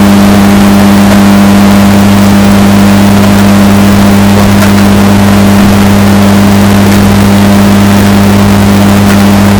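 Washing machine running with a steady, unchanging drone built on a strong low tone, bass-boosted and overdriven so that it is very loud and distorted.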